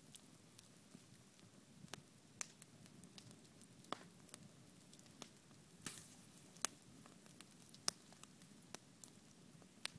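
Campfire crackling: sharp, irregular pops and snaps over a faint low rush of the flames.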